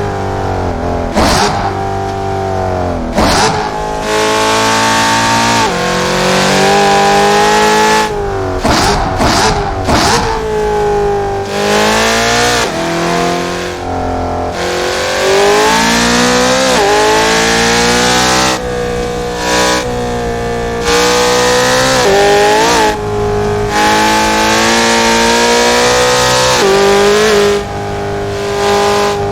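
Car engine heard from on board, revving up through the gears and dropping back for corners, its pitch climbing and falling again and again. Several sharp cracks come at the shifts, most of them in the first third.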